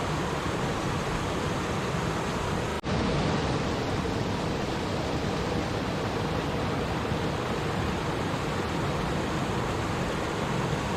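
Stream water rushing and babbling in a steady, even wash, with an instant's dropout about three seconds in.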